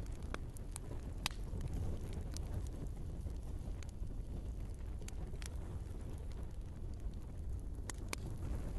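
Log fire burning in a fireplace: a steady low rumble of flames with irregular sharp crackles and pops from the burning wood, the loudest about a second in.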